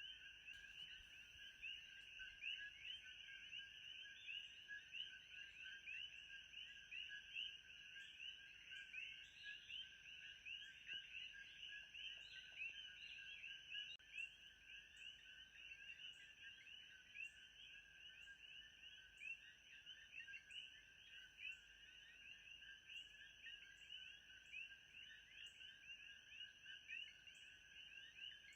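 Quiet nature-ambience track: a dense, steady chorus of countless high, rapid chirping calls, with a faint high tick repeating at a regular pace above it.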